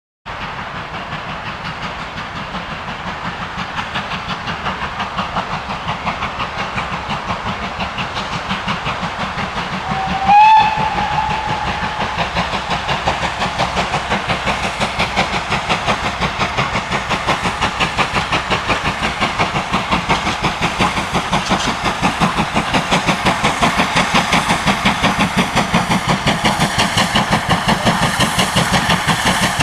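GWR 42xx 2-8-0 tank locomotive No. 4247 working under steam, its exhaust beats in a steady rhythm that slowly grows louder. A short steam-whistle blast about ten seconds in is the loudest sound.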